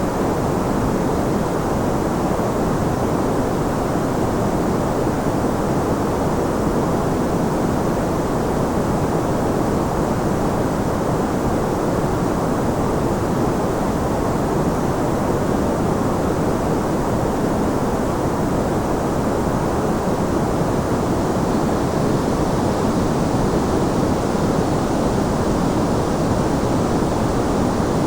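Steady, unchanging sleep-aid noise of the kind sold as white noise, heaviest in the lows and mids and thinning out in the highs, a smooth deep hiss without any drops, clicks or changes.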